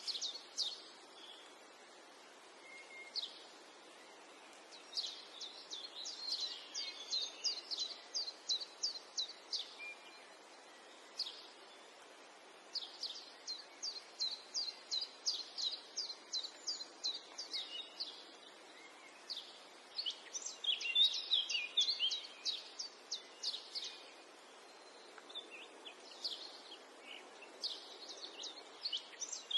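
Small birds chirping in quick runs of short, high chirps, with brief pauses between runs, over a faint steady hiss.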